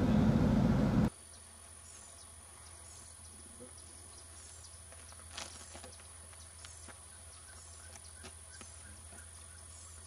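A loud low rumble that cuts off suddenly about a second in. It gives way to quiet tropical outdoor ambience with faint, repeated short high downslurred bird chirps and one louder call about halfway through.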